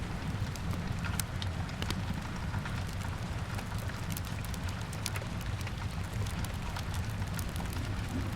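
Rain-and-fireplace ambience: steady rain hiss over a low rumble, with scattered sharp crackles and pops of a wood fire.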